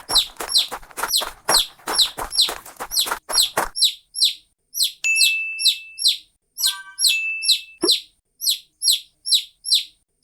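Bird chirping: short downward chirps repeated about twice a second, over a background hiss that stops after about four seconds. A steady whistled note sounds twice around the middle.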